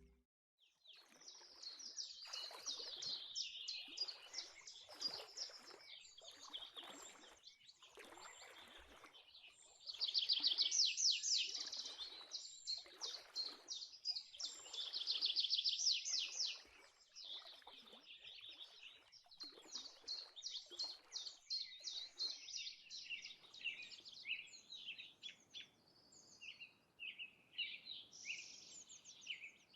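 Birds singing: a run of chirps and fast trills, loudest in two bursts of rapid trilling about ten and fifteen seconds in.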